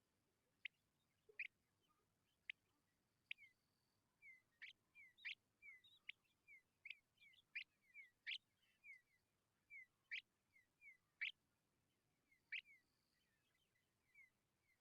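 Tawny pipits chirping: an irregular run of short, sharp high notes, thickest in the middle of the stretch, mixed with softer, short falling chirps.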